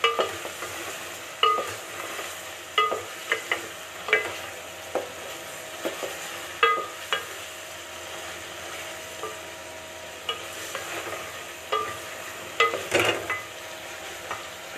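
Chicken pieces and ground spices sizzling as they are stirred and fried in a metal pot, a steady hiss. A spoon knocks against the pot at irregular moments, with a quick run of knocks near the end.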